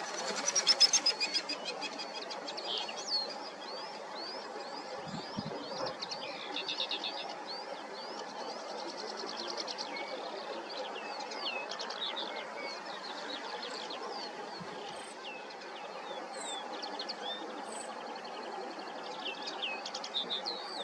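Male common linnet singing: a continuous twittering song of quick chirps and slurred notes, opening with a fast trill and with another rapid trilled stretch near the end.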